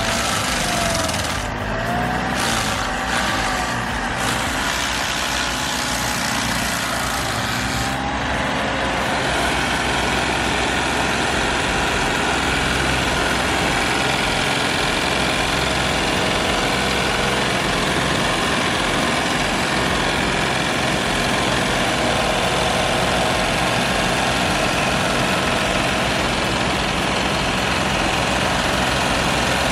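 Engine of heavy forestry machinery running steadily under load. A few short pitch changes come in the first seconds, and a denser, fuller mechanical noise sets in about 8 seconds in.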